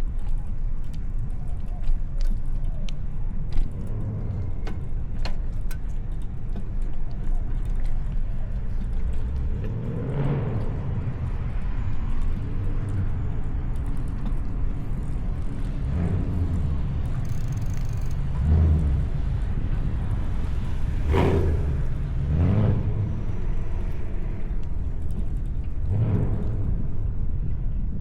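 Steady low rumble of wind on the microphone and road noise from a bicycle riding along city streets, with light rattles and traffic passing several times.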